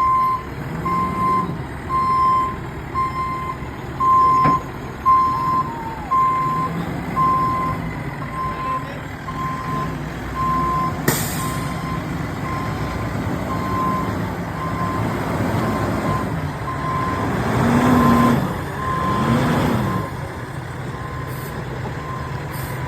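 Dump truck reversing: its back-up alarm beeps steadily at about one beep a second over the low running of the diesel engine, with one sharp click midway.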